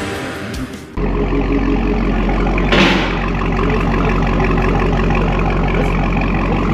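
Supercharged 6.2-litre HEMI V8 of a 2022 Dodge Challenger Hellcat idling steadily through an AWE Touring aftermarket exhaust, a deep rumble. A short burst of noise about three seconds in.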